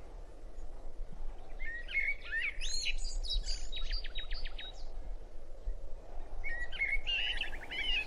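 Small birds chirping and trilling in two bouts, the first from about a second and a half in, the second near the end, over a steady outdoor background hiss.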